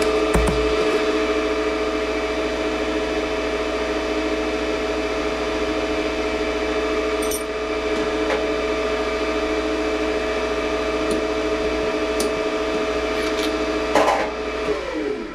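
Lathe running steadily with a whine made of several steady tones and a few light clicks. About fourteen seconds in there is a knock, then the lathe is switched off and its pitch falls as it spins down.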